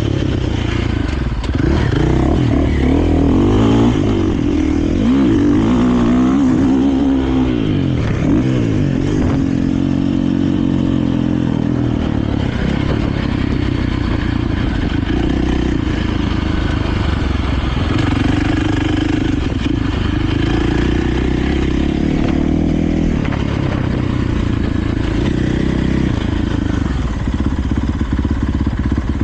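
KTM 450 motocross bike's single-cylinder four-stroke engine being ridden, its pitch rising and falling over and over as the throttle is worked and gears change.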